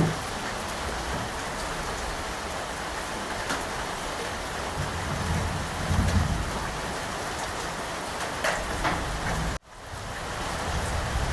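Steady rain falling, with a low rumble of distant thunder swelling in the middle. Near the end the sound cuts out abruptly for an instant and then fades back in.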